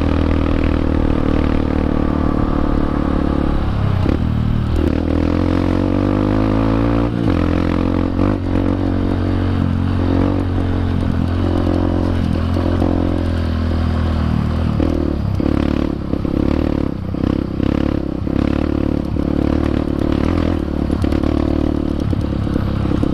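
Honda CRF150L's single-cylinder four-stroke engine running through a Norifumi aftermarket exhaust while being ridden, its pitch rising and falling with the throttle. Frequent clattering knocks come in over the second half.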